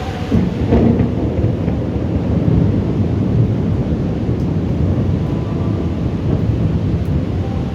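Thunder: a sudden crack about half a second in, then a long low rolling rumble.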